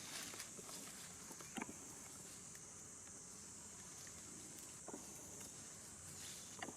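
Faint, steady high-pitched insect chorus, with three soft clicks or taps.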